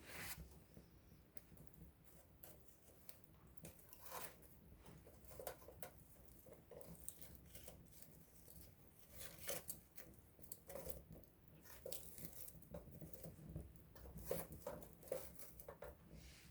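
Wood campfire burning with soft, irregular crackles and small snaps of burning wood, a few sharper pops standing out, over a faint low rumble.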